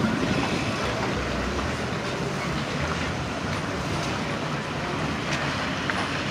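Steady road traffic: vehicle engines running and tyres on the road as cars pass.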